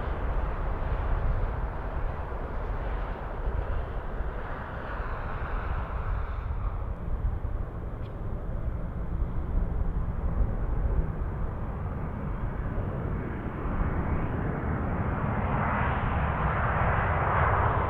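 Jet airliner on approach to land, a continuous rumble of engine noise that grows louder over the last few seconds as the aircraft comes closer.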